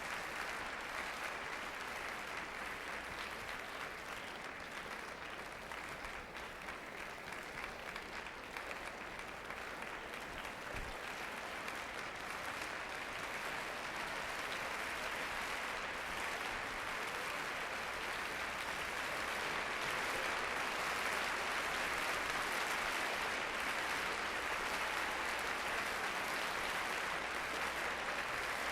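Concert hall audience applauding steadily, the applause swelling slightly in the second half.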